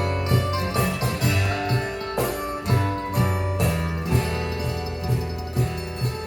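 Live band playing an instrumental break in a country-style song: guitar over sustained bass notes and a steady beat.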